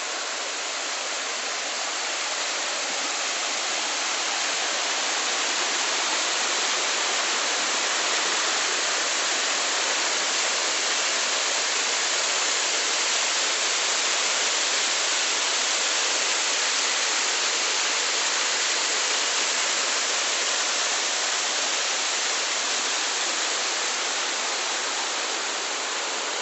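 Waterfall rushing: a steady, even noise of falling water, with little deep rumble, growing slightly louder over the first few seconds.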